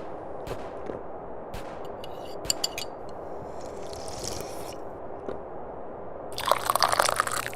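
Sipping and slurping of tea from a cup. A few small clicks and a short quieter sip come first, then a long, loud, crackly slurp starts about six seconds in.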